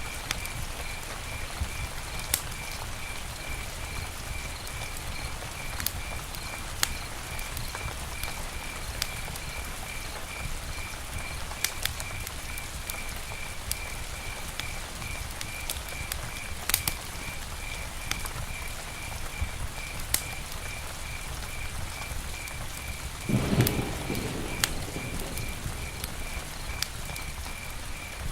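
Campfire burning with a steady crackle and sharp pops every second or few. A high-pitched chirp repeats about three times a second in the background, and a brief low rumble comes near the end.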